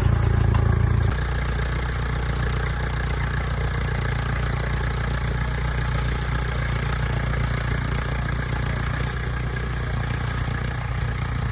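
Tractor engine idling steadily, running again after its clutch was rebuilt; its low hum steps down slightly about a second in, then holds steady.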